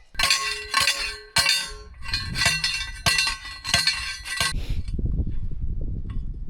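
Metal struck over and over, about eight ringing clinks roughly half a second apart, then a low rumbling noise for the last couple of seconds.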